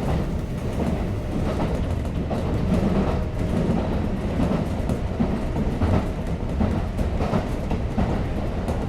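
Kintetsu 5800 series electric train running, heard from inside the car: a steady low rumble of wheels on rail, broken by irregular clicks and knocks.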